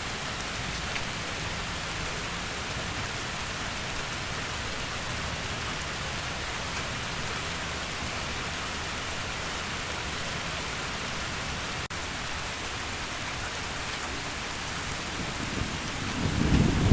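Steady heavy rain falling. A low rumble of thunder swells near the end.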